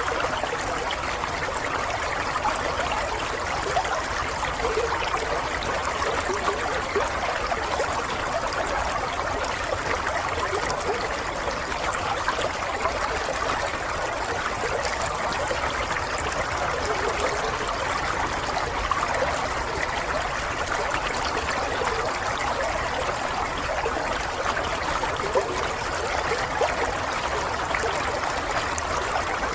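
Water running and trickling steadily, like a small stream flowing over stones, with a continuous babble of small splashes.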